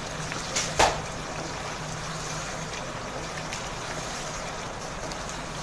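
Goat-liver masala frying in ghee in a pan, with a steady sizzle as it is stirred with a wooden spatula. The water has cooked off, so the liver is now frying in the fat it has released. The spatula knocks against the pan twice, just under a second in.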